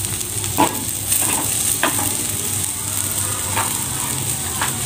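Vegetables sizzling as they stir-fry in a hot wok, with a steady hiss and a few short scrapes of the spatula against the pan.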